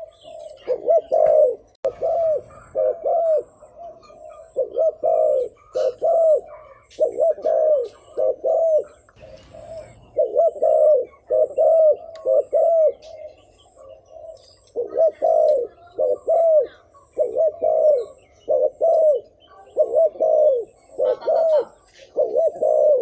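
Spotted dove cooing over and over in quick bursts of two or three short, arched coos: the rapid 'gù' cooing that keepers play to stir up territorial wild males.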